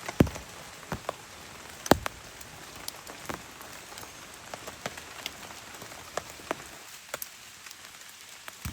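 Rain falling steadily, with large drops striking a surface in irregular sharp taps; the loudest taps come about a quarter second and two seconds in.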